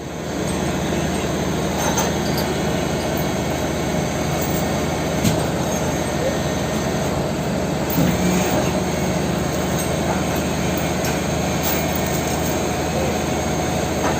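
Mitsubishi Fuso Super Great truck's diesel engine running steadily, with a few light knocks about 2, 5 and 8 seconds in.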